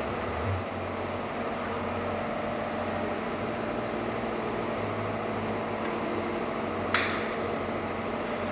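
Steady machine hum and hiss with a low drone, and a single sharp clank about seven seconds in.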